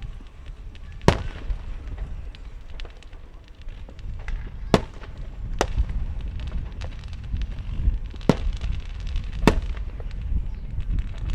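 Fireworks going off: five sharp bangs spread over the stretch, with many smaller pops and crackles between them and a steady low rumble underneath.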